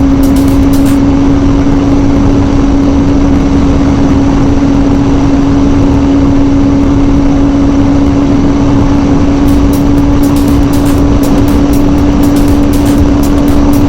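Kawasaki ZZR600 inline-four engine running at a steady high speed on the highway, holding one constant pitch, under a heavy rush of wind noise.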